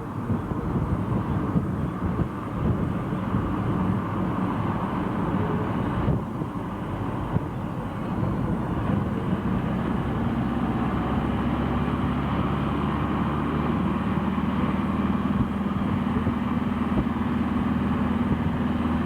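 Steady vehicle engine and road noise, rumbling. From about nine seconds in, a steady low engine hum becomes prominent.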